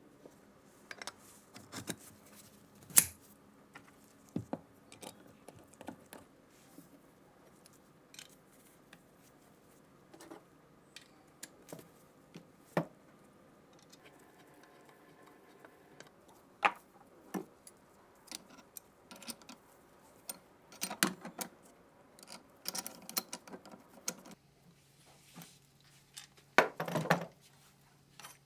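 Small steel gun parts being handled: irregular metallic clicks, taps and clinks with short knocks, a louder clatter near the end.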